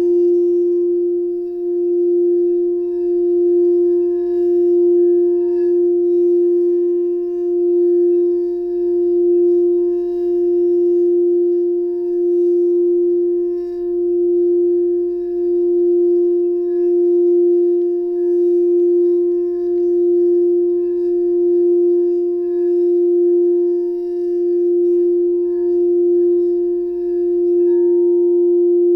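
Singing bowl ringing one sustained, steady tone with faint higher overtones, its loudness gently swelling and fading about every second and a half, sounded for heart chakra sound therapy.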